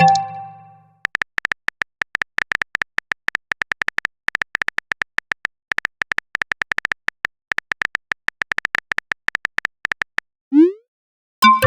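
Phone-keyboard typing sound effect: rapid short clicks for about nine seconds. Near the end comes a short rising swoosh, then a bright notification chime of several tones, the sounds of a message being sent and received. It opens on the fading tail of a similar chime.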